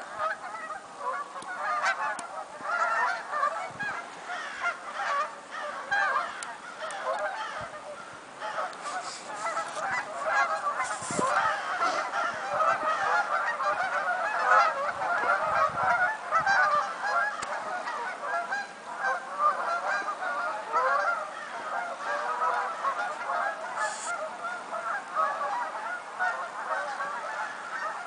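A large flock of birds calling at once: a dense, continuous chorus of many short, overlapping calls that keeps up without a break.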